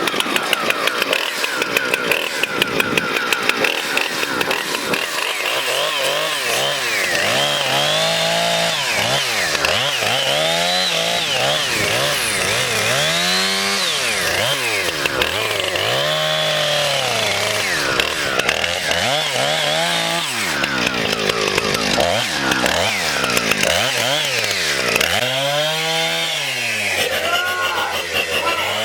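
Gasoline chainsaw cutting into a pumpkin. The engine is revved up and eased off again and again, its pitch rising and falling about every two seconds, after an uneven, pulsing start.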